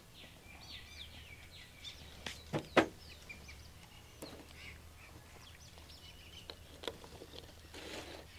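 Birds chirping in the background over a steady low hum, with a few sharp knocks about two and a half seconds in and another near the end.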